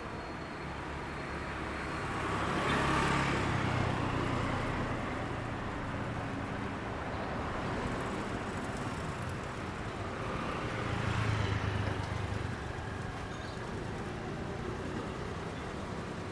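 Road traffic: two motor vehicles pass close by, one about three seconds in and another about eleven seconds in, over a steady background of traffic noise.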